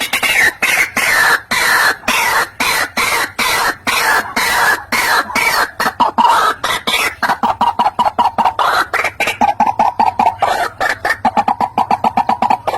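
White-breasted waterhen calling: a fast run of harsh, repeated notes that settles about halfway through into a steady, rapid series of even notes.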